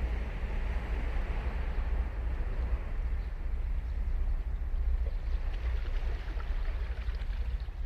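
Ocean surf breaking and washing up the beach in surges, swelling again about five seconds in, with a steady low rumble of wind on the microphone underneath.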